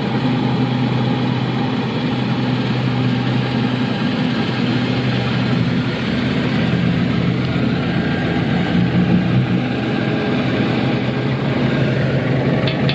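Isuzu 'Robocop' truck engine idling steadily.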